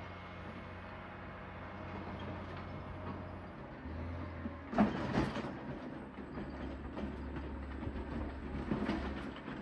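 John Deere 670 motor grader's diesel engine running steadily at a low hum, with loud metallic clanks and knocks about halfway through and more knocking near the end.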